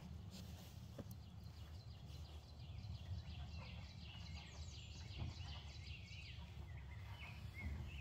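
Small birds chirping rapidly in the woods, a dense run of short high chirps starting about two and a half seconds in, over a low steady rumble, with a couple of faint knocks.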